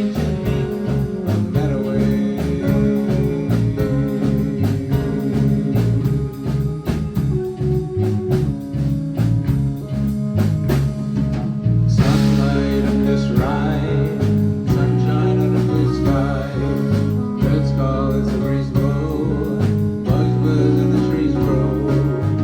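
A live band playing a song: guitar over a steady drum beat, with singing. About halfway through the sound grows fuller and brighter.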